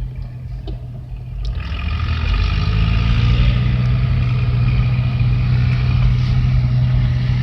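Vehicle engine pulling away: a low hum that builds up about a second and a half in, then runs steadily at speed.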